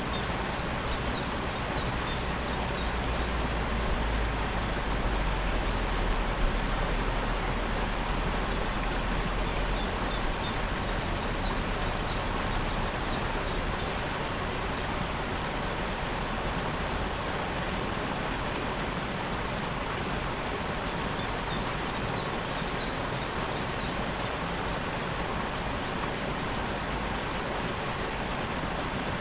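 Steady rushing of a waterfall. A bird sings a quick run of short high notes three times, about every ten seconds.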